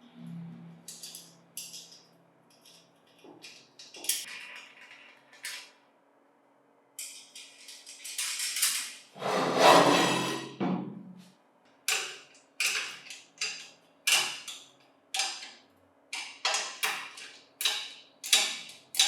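Workshop work on metal parts: scattered clinks and scrapes, a longer, louder scraping sound about halfway through, then a run of evenly spaced sharp strokes, about one and a half a second.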